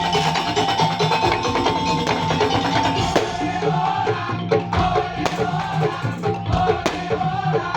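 Madurese ul-daul percussion ensemble playing: an even, fast beat of struck notes under a held high melodic line that steps down in pitch about three seconds in.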